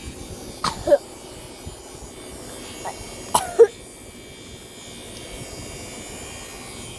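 A child coughing: a quick double cough about a second in, and another double cough at about three and a half seconds.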